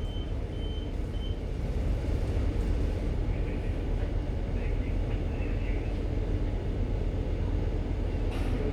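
Steady low rumble of a ship's engine and machinery while the vessel manoeuvres to berth, with a few faint short beeps in the first second.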